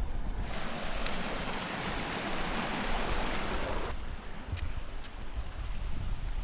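Wind gusting, a broad rushing noise over low buffeting on the microphone; the rushing cuts off abruptly about four seconds in, leaving the low rumble.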